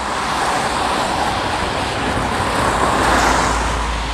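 Road traffic: a vehicle passing close by, its tyre and engine noise swelling to a peak about three seconds in and then fading.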